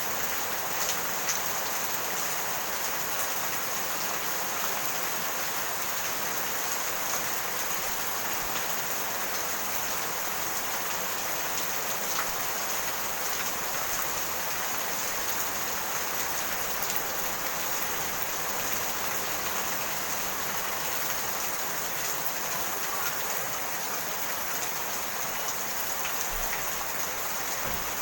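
Steady rain falling and pattering on surfaces, with scattered individual drop ticks.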